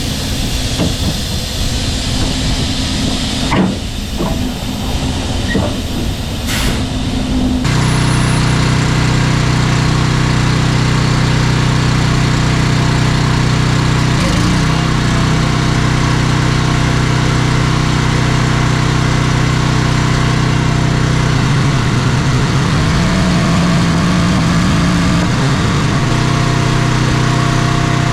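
Diesel semi-truck engine running at a steady idle while the tractor is backed up and hooked to the lowboy trailer. A few sharp clicks or knocks come in the first several seconds, the engine sound becomes suddenly louder and steadier about eight seconds in, and the engine note drops right at the end.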